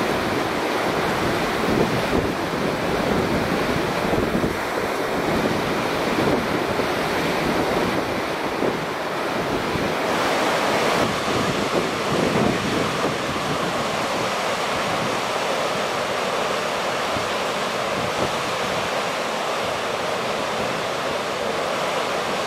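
Steady rushing of the typhoon-swollen Kizu River in flood, with wind buffeting the microphone.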